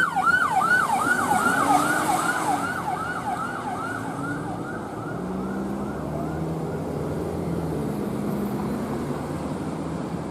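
Emergency-vehicle siren in a fast yelp, about three sweeps a second, fading away over the first half. Vehicle engine and road noise carry on after it.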